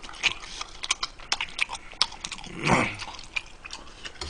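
Close-miked mouth sounds of a man chewing a mouthful of noodles: a string of short, wet smacking clicks, with one short louder sound about two-thirds of the way through.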